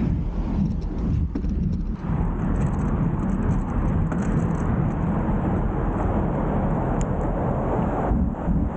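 Wind rushing over the microphone with a steady low rumble from riding a bike. The noise eases briefly about two seconds in and again near the end.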